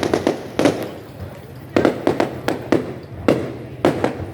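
Fireworks display: aerial shells bursting in quick, irregular bangs, several a second, with a lull of about a second early on.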